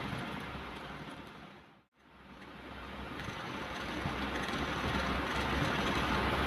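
Ocean waves washing on a shore, a steady rushing of surf with a low rumble. It fades away to silence about two seconds in, then swells back up to full.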